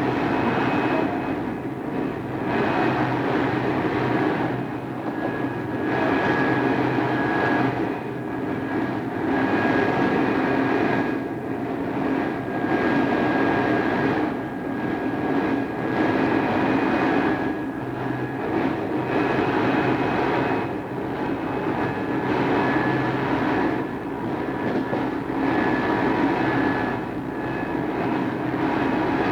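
Running sound heard from inside an Odakyu 2600 series electric commuter train under way: steady wheel-and-rail rumble with the traction motors and gears humming, swelling and easing every couple of seconds. Recorded on cassette tape.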